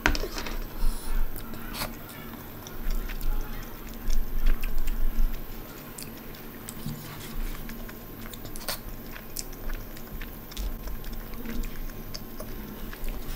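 Close-miked chewing and mouth sounds of someone eating vegetable biryani with her fingers: soft wet smacks and irregular small clicks and crackles.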